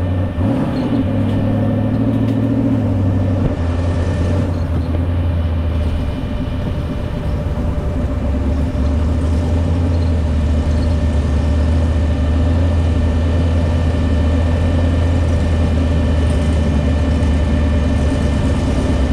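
Off-road vehicle engine running at low, steady revs, its pitch stepping up and down a little in the first few seconds before settling.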